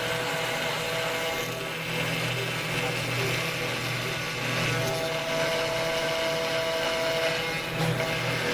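CNC router spindle running steadily while cutting acrylic resin, a few held tones over a constant hiss.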